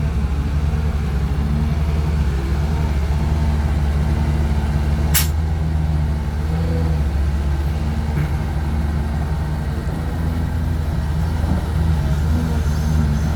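Heavy diesel engine of a dump truck or excavator running steadily at a low, even pitch, with one short sharp hiss about five seconds in.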